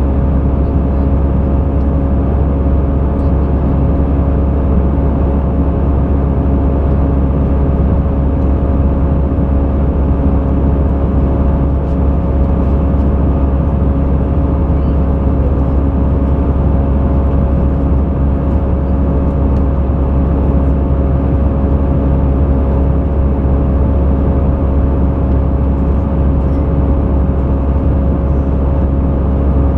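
Steady in-flight cabin noise of an Airbus A320: engine and airflow drone with a strong low rumble and a few steady humming tones over it.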